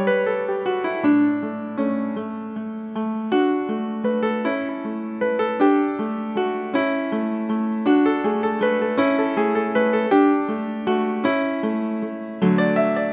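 Piano music: a slow, steady flow of struck notes and chords, each ringing and fading.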